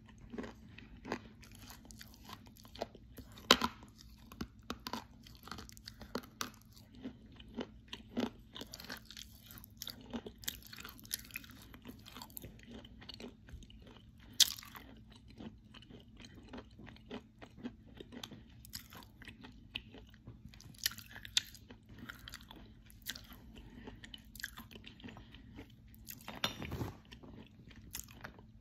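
A person chewing crunchy clay close to the microphone: irregular crisp crunches, with a couple of much sharper snaps as pieces break.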